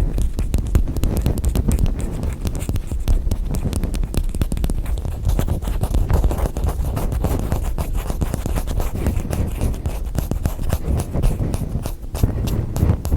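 Fingers and nails tapping and scratching fast on hard objects such as container lids, many taps a second, briefly easing off near the end.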